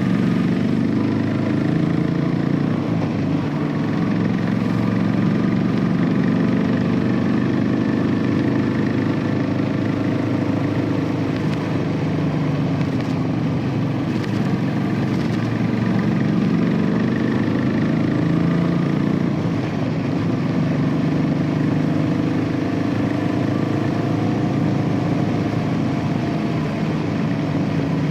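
Royal Enfield Classic 500's single-cylinder engine through its stock exhaust, running steadily while the bike is ridden. The engine note rises and falls gently with throttle and speed.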